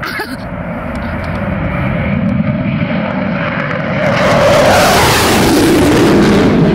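Panavia Tornado jet taking off under full afterburner power from its twin RB199 turbofans. The jet noise builds steadily and is loudest and harshest from about four seconds in, as the aircraft passes close by.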